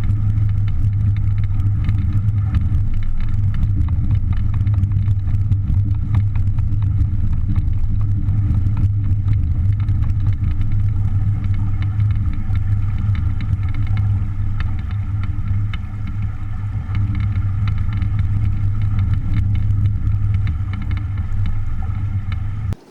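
A small engine running steadily at a constant speed, a low even drone with a light rattle. It starts and cuts off abruptly.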